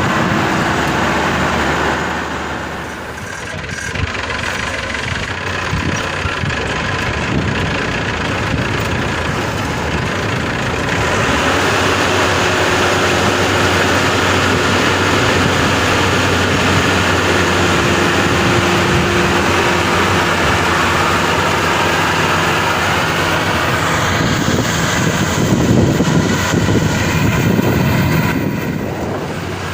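Maxxi Bimo 102 combine harvester's diesel engine running steadily under a wash of machine noise, which grows louder about eleven seconds in and swells deeper again near the end.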